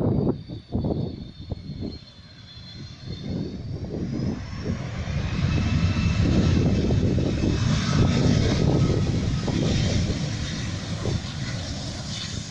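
Boeing 757 jet airliner landing: its engine whine falls in pitch, then the engine roar swells to a peak in the middle and eases off a little near the end. Wind buffets the microphone in the first two seconds.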